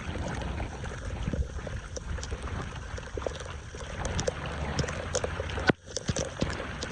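Water running and gurgling, with scattered clicks and knocks throughout and a brief sudden break just before six seconds.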